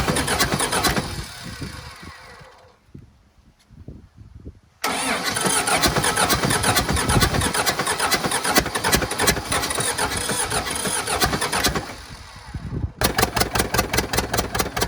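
Old backhoe loader's tractor engine, just freed from seizure, starting and running. The sound fades almost away for a couple of seconds, comes back suddenly about five seconds in, dips briefly near twelve seconds, and near the end runs with a fast, even beat.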